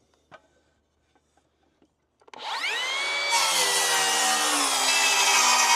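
A few faint taps of handling, then about two seconds in a circular saw's motor spins up with a quickly rising whine and runs steadily. A second later the blade bites into the wooden board and the sound thickens into a steady cut.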